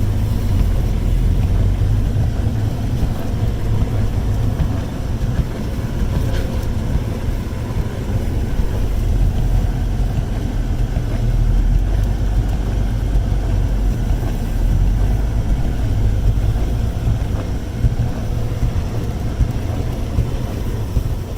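Off-road Jeep's engine running at low revs with a steady low rumble as it crawls through snow.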